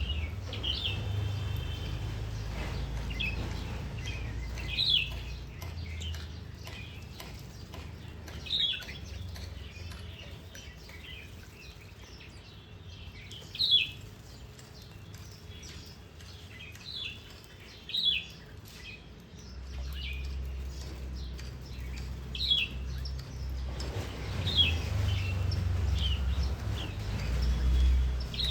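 Small garden birds chirping: short, sharp chirps every few seconds, a few louder than the rest, over a steady low rumble.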